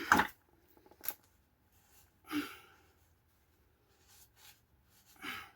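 A few short, separate work noises: a loud knock just after the start, a sharp click about a second in, and two brief rustling bursts, one about two and a half seconds in and one near the end, with quiet between.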